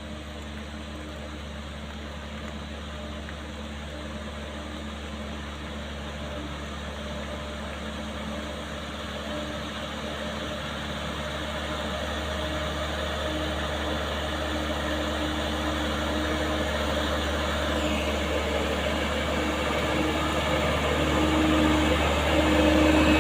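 Heavy truck engine running steadily, growing gradually louder throughout.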